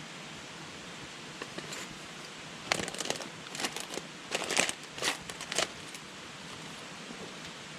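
Campfire burning with a steady hiss, broken by a quick run of sharp crackles and pops lasting about three seconds in the middle.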